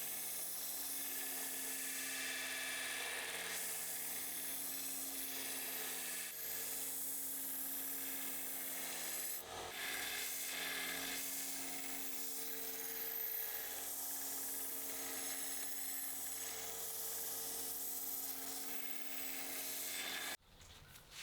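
Small electric power tool running with a steady hum and a continuous rasping scrape as it abrades metal, stopping abruptly near the end.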